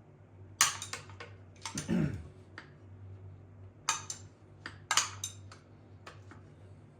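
Metal tools clinking and tapping against a small-block Chevy 350 as the distributor hold-down is tightened: a run of sharp, irregular metallic clinks, the loudest about half a second in and about five seconds in.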